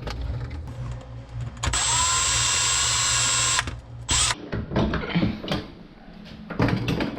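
Cordless drill/driver motor spinning up and running steadily for about two seconds, then a second short burst, amid knocks and handling noise from the work at the electrical box.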